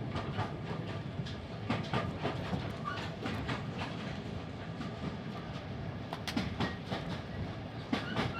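Railway carriage running along the track: a steady low rumble with irregular clicks and knocks from the wheels over the rail joints.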